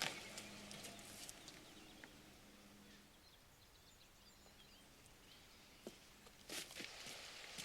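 Near silence: faint room tone with a low hum and a few soft clicks, and a brief rustle about six and a half seconds in.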